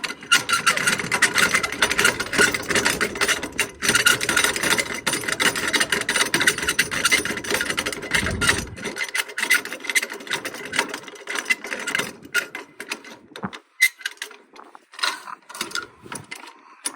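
A strap winder reeling in a flatbed cargo strap: a continuous rapid ratcheting rasp as the strap rubs and winds onto the spool. It thins out about thirteen seconds in, leaving a few scattered clicks.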